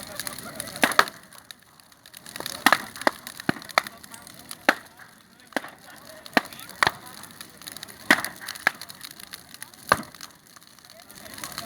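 Wood bonfire burning, crackling with sharp irregular pops about one or two a second over a low hiss.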